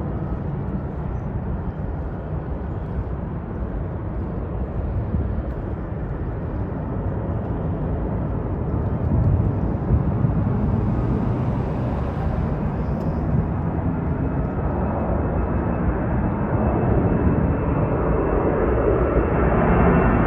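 Airliner's engines during takeoff, a rumble growing steadily louder, with a thin high whine coming in about halfway through.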